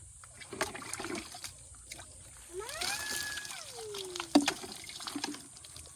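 Water trickling, pouring and splashing during a bucket bath at a well. About halfway through comes one long call that rises and then falls in pitch, and shortly after it a single sharp knock, the loudest sound.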